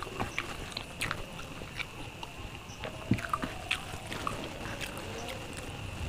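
Close-miked mouth sounds of a man eating by hand: chewing with soft, wet clicks and smacks. A faint steady high-pitched tone runs behind.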